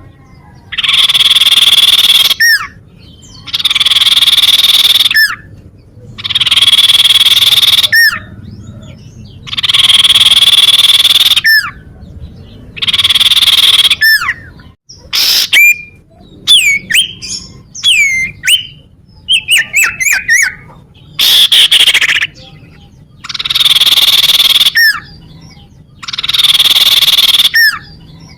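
Common iora (cipoh) calling: loud harsh rasping calls about a second and a half long, repeated every two to three seconds, with short slurred whistles between them. In the middle the rasps give way for a few seconds to quick whistled notes, including a series that steps down in pitch.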